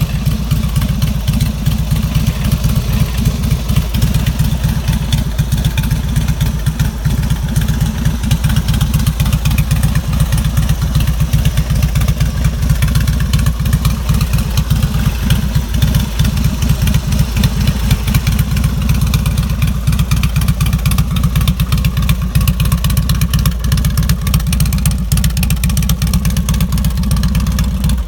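2001 Harley-Davidson Road King's carbureted 1450 cc Twin Cam V-twin idling steadily through fishtail mufflers, a loud, low exhaust beat.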